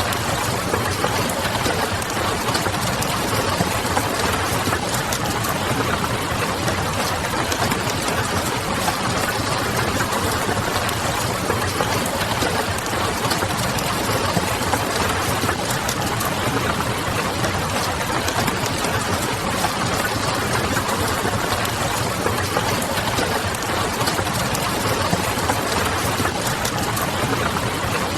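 Wood fire crackling and rain pattering on a window in a steady, dense mix, over a low distant city hum.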